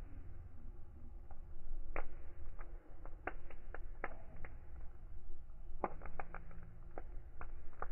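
Fire crackling: irregular sharp pops and snaps over a low steady rumble, with little clusters of pops around three to four seconds in and again near six seconds.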